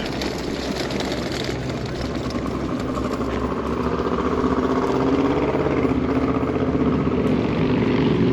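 A motor vehicle engine running steadily, slowly getting louder as it nears.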